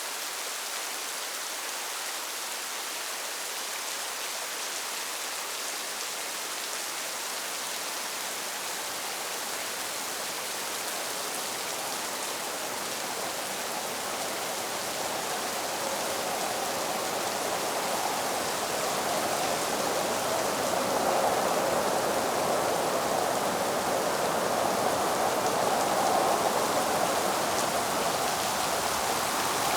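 Steady rain hiss from a storm-ambience recording, swelling louder about halfway through.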